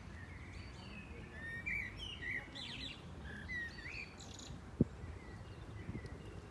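Small birds chirping: many short, quick chirps that rise and fall in pitch and overlap one another, over a low background rumble. There is a single short knock a little after the middle.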